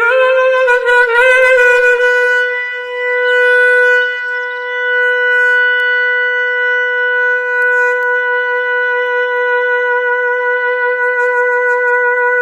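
Clarinet holding one long note, wavering slightly in pitch for the first second or two and then steady.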